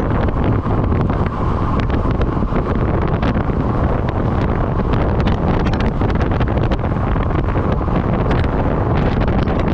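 Steady, loud wind noise buffeting the microphone of a camera carried on a road bike at speed, with many small crackles through it.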